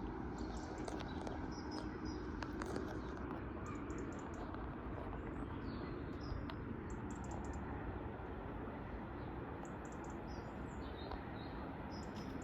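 Transport for Wales class 197 diesel multiple unit standing at the platform with its engines idling, a steady low hum. Small birds chirp in short high bursts over it.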